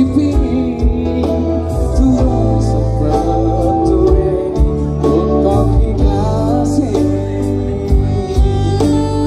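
Dangdut koplo band playing live through a loud PA: a wavering sung or lead melody over steady bass and regular drum hits.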